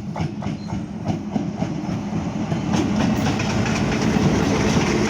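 Passenger train wheels clattering over rail joints and track points as the train switches lines coming into a station, a quick run of clicks over a steady rumble that grows louder.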